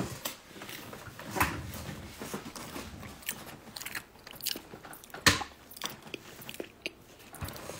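A person biting and chewing crunchy food close to the microphone, irregular crunches and wet mouth clicks, the loudest bite about five seconds in.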